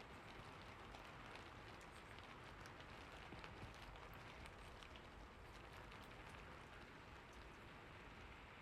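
Faint, steady rain, with many small drops pattering sharply over the even hiss.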